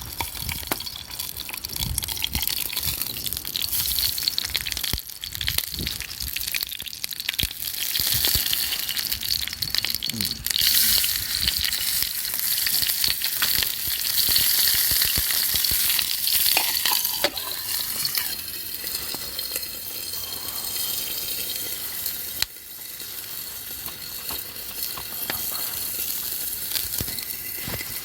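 Food sizzling and spitting in a hot pan over a campfire. The hiss swells louder midway, then settles to a softer sizzle near the end.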